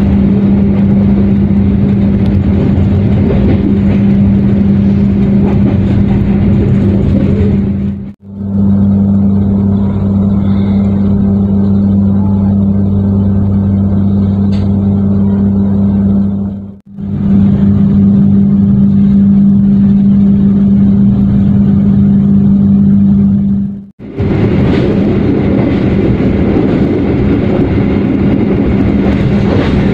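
Moving passenger train heard from inside the coach: steady running rumble with a constant low hum. It comes in four stretches, each cut off by a brief fade to near silence about 8, 17 and 24 seconds in.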